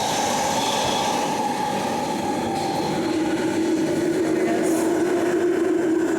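London Underground 1996 Tube Stock train running, its traction motor whine over wheel and rail noise: a steady high whine, joined about halfway by a lower steady tone that grows louder.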